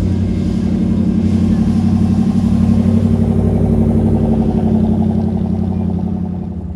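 A classic car's engine rumbling as it drives past, growing louder to a peak about three seconds in and then fading away.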